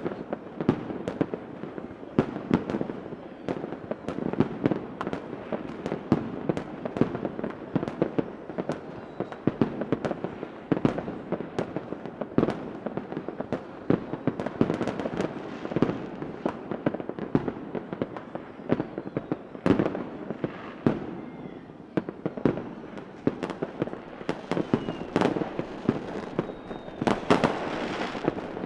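Fireworks going off continuously: a dense run of sharp cracks and pops over a low rumble, with a few faint rising whistles near the end.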